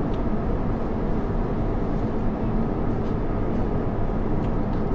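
Steady low rumble inside the cabin of an Airbus A350-900 in flight, from its Rolls-Royce Trent XWB engines and the air rushing past the fuselage.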